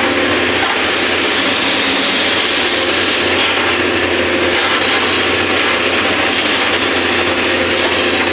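Excavator working, with a steady, continuous mechanical running noise: a low hum under a dense grinding clatter.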